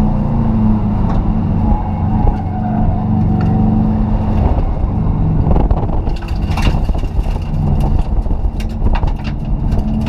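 Competition car's engine running hard, heard from inside the stripped, roll-caged cabin, its pitch changing a few times as the car drives on. From about six seconds in, a run of sharp clicks and knocks sounds over the engine.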